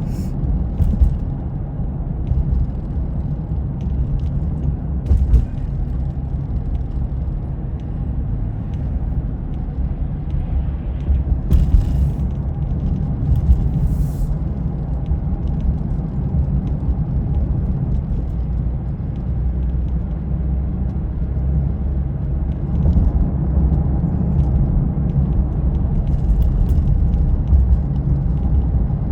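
Steady low rumble of a vehicle driving, with a few brief faint clicks near the middle and near the end.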